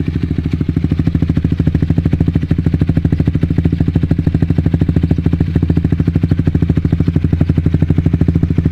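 Honda CB150R's single-cylinder engine idling at low rpm through a Pro Liner TR-1 long-canister carbon aftermarket exhaust: a steady, evenly pulsing exhaust note with a bassy character.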